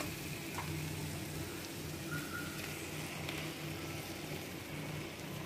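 Tomato-and-spice masala frying gently in a steel pan: a quiet, steady sizzle under a low hum.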